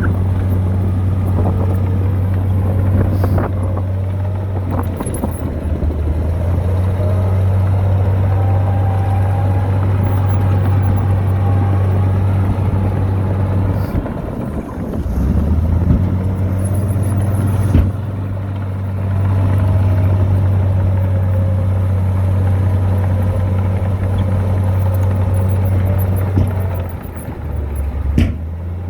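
Heavy diesel engine of an earthmoving machine running steadily under load. Its note dips and recovers a few times, with a fainter gliding whine above it and a few sharp metallic clanks.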